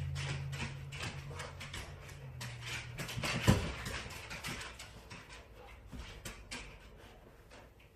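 Dogs moving about on a hard floor: irregular clicks and scuffs, with one loud thump about three and a half seconds in. A low hum fades out during the first couple of seconds.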